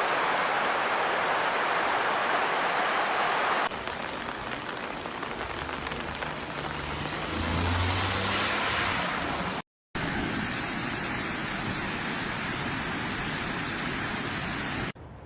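Floodwater rushing in a steady loud roar over several short clips, each cut changing the sound abruptly, with a low hum in the middle clip.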